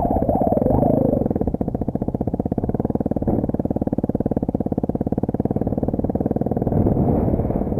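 Exhaust of a 250 cc single-cylinder dirt/motard motorcycle with an aftermarket muffler. The revs fall off about a second in to a slow, even putter, then pick up again near the end.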